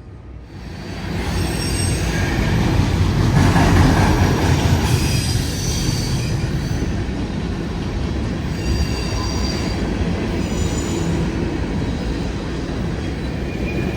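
A train passing at speed: a steady rumble of wheels on rail that swells up about a second in, with high-pitched wheel squeal coming and going.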